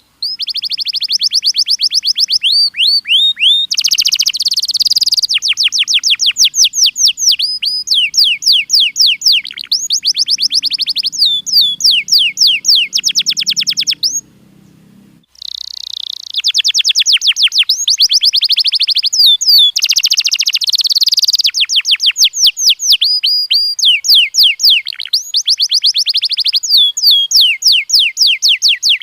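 Domestic canary singing: long, fast rolls of repeated high notes and trills, one tour after another. There is a break of about a second near the middle.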